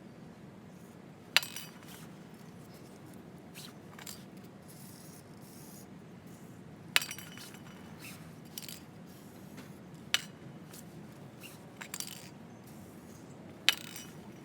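Sharp metallic clinks of metal tools and parts being handled during work on a motorcycle, each ringing briefly; four loud ones a few seconds apart with fainter taps between, over a low steady background hum.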